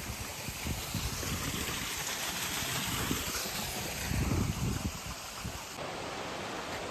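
Rushing water from a stream on the trail to a waterfall, a steady hiss, with a few low thuds near the middle.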